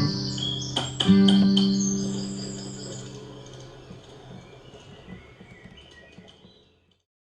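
A final guitar chord struck about a second in and left to ring, fading away over several seconds until it stops. Birds chirp faintly in the background.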